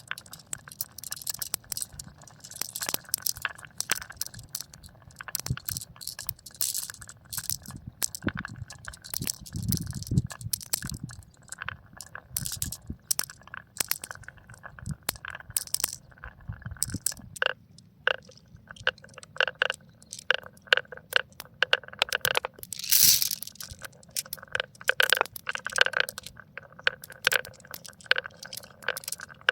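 Irregular sharp clicks and clinks of small hard objects knocking and rattling together, over a faint steady hum.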